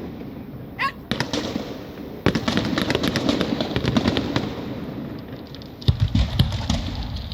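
Rapid crackling and popping over a murmur of voices, with a short rising whistle-like sound about a second in and heavier low thumps from about six seconds.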